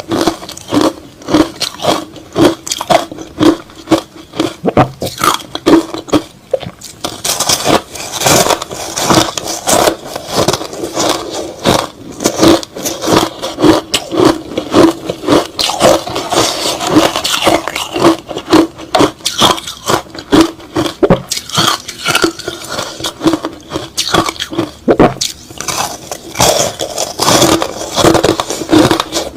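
Close-miked chewing of crushed ice slush: rapid, irregular crunches, about two or three a second, with wet scraping between them.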